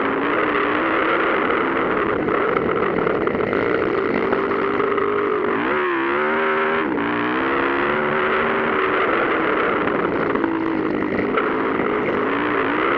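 Motocross dirt bike engines running at race speed, their pitch rising and falling with the throttle; about six seconds in the pitch drops sharply and climbs again.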